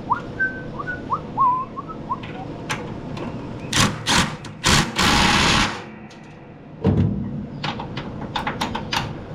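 Hand tools at work on a riding mower: several sharp metallic knocks, a short hiss-like rush about five seconds in, then a run of quick clicks typical of a socket ratchet near the end. A bird chirps a series of short rising notes in the first two seconds.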